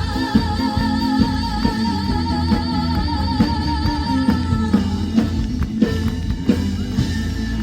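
Live band music with drums, bass and guitar backing a female singer who holds one long note with vibrato; she breaks off about four and a half seconds in while the band plays on.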